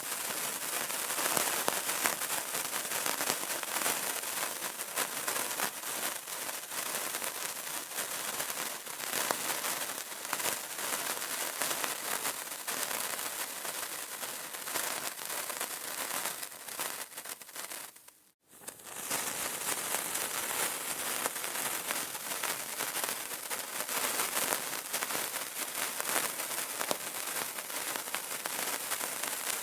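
Burning candle crackling: a steady, dense stream of fine pops and crackles. The crackle fades out briefly about two-thirds of the way through, then returns.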